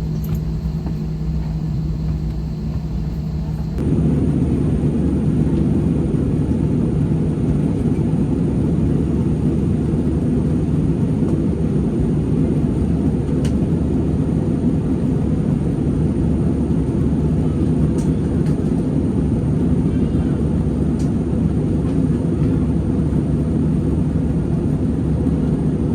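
Airliner cabin noise: the steady drone of engines and airflow, heaviest in the low range. It jumps abruptly louder about four seconds in, then holds steady.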